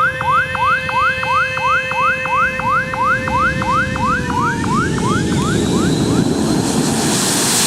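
Runway warning alarm sounding a repeating rising whoop, about three a second, to clear people off an unfenced runway. About five seconds in it fades out under the growing rush of a passing aircraft's engines.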